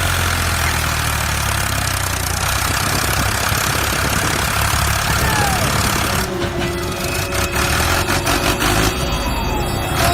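A vehicle engine running steadily at idle, a low even hum. A few short, gliding chirps sound over it in the second half.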